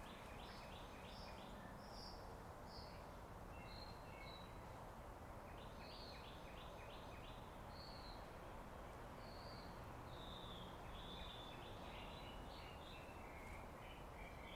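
Small birds chirping in quick runs of short notes, several times, with scattered higher whistled notes, over a faint steady hum of machinery.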